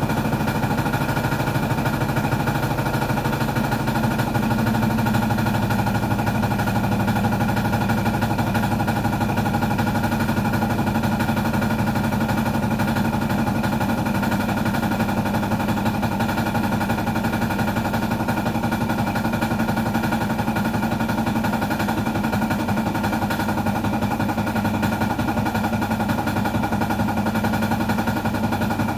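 A small motor running steadily with a fast, even rattling pulse, typical of the motor driving a small handmade boat or pump.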